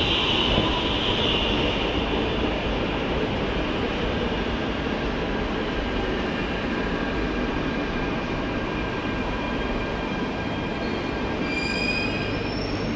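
Electric commuter train pulling into an underground station platform, a steady rumble of wheels on rail as it slows. High squealing from the wheels at the start fades away, and a few high squeal tones return near the end.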